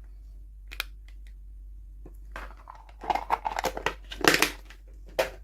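Toy packaging being opened by hand: a single click about a second in, then a run of crinkling and tearing from about halfway through, loudest near the end.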